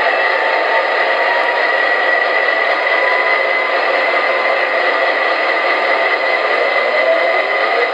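MTH Premier O-gauge ES44AC model diesel locomotive running on track: a steady whir and rattle.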